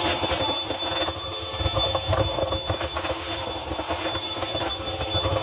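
Vacuum running with a steady high whine, sucking lint out of a dryer's lint trap, with an uneven rattling texture over the drone.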